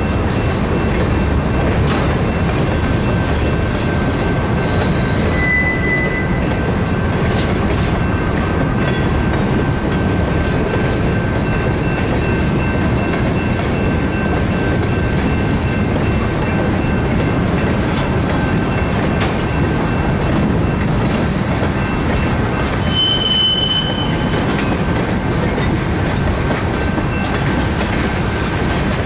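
Freight cars (boxcars, gondolas and tank cars) rolling past: a steady rumble and clack of steel wheels on rail, with a thin, high wheel squeal held through most of it. Short, sharper squeals come about five seconds in and again about twenty-three seconds in.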